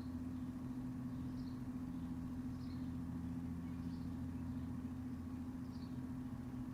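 Outdoor backyard ambience: a steady low machine hum under a bird giving a short high chirp about five times, roughly every second and a half.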